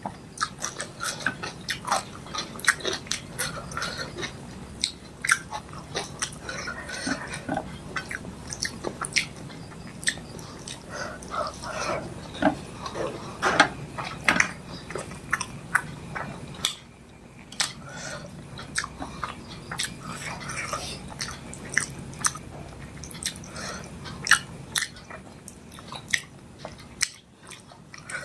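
Close-miked eating sounds: a person chewing fish curry and rice with wet mouth smacks and lip clicks, in an irregular stream of short sharp sounds with brief pauses.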